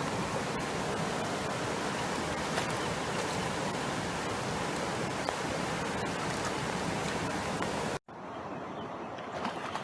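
Rushing water of a stream cascade, a steady hiss. Near the end it cuts off abruptly and gives way to quieter running water with a few faint clicks.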